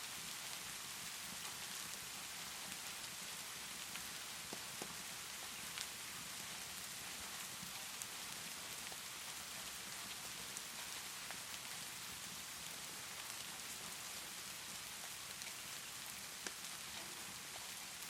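Steady rainfall hiss with scattered sharp pops and clicks from a crackling fireplace.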